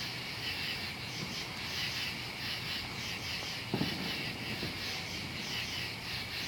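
Insects chirring steadily in a pulsing high chorus, with a single dull thump about four seconds in.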